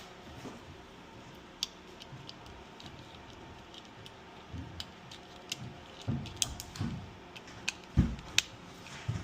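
Scattered small clicks and light knocks, such as small parts or tools being handled, sparse at first and busier in the second half, with a sharper knock about eight seconds in.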